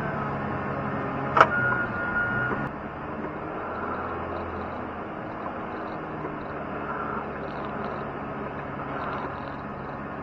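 Snow-plowing machine's engine running steadily, with one sharp clank about a second and a half in.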